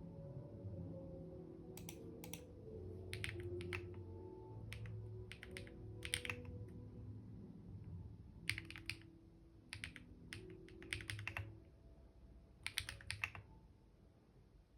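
Computer keyboard typing in short bursts of rapid keystrokes, with pauses of a second or so between bursts; the typing stops near the end.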